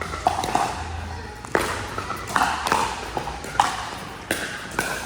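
Pickleball paddles striking a hard plastic ball: a run of sharp pocks at irregular spacing, about seven in five seconds, each with a short echo.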